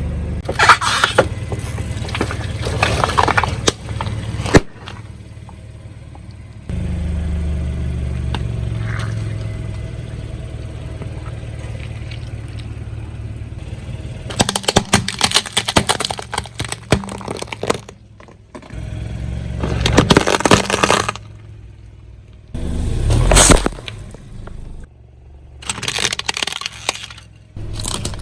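A car's tyres rolling over and crushing brittle objects in a series of separate crunching, crackling stretches, with a sharp crack about four and a half seconds in. Between the crushes, the car's engine runs with a steady low rumble.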